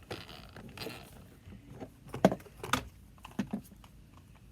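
A few light clicks and knocks of toys being handled, the sharpest two about two and a half seconds in.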